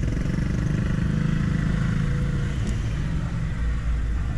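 Motor vehicle engines running at low speed, a steady rumble heard from inside a car; a stronger engine hum fades after about two and a half seconds.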